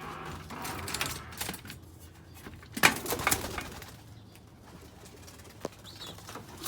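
Pigeons cooing in a loft, with several knocks and rattles, the loudest about three seconds in.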